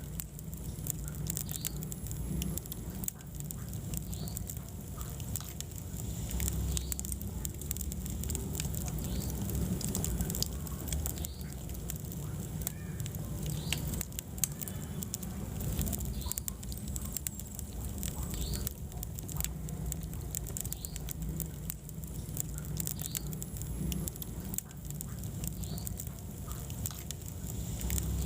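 Wood fire crackling steadily, with many small irregular pops and snaps over a low rumble of the flames.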